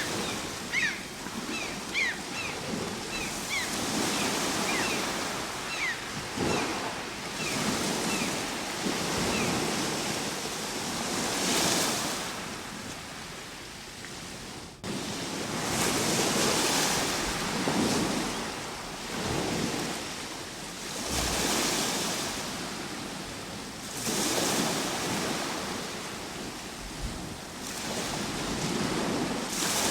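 Ocean surf: waves breaking and washing in, swelling and ebbing every few seconds. Through the first several seconds a run of short, high, falling chirps repeats above the surf. About halfway through, the sound cuts abruptly and resumes louder.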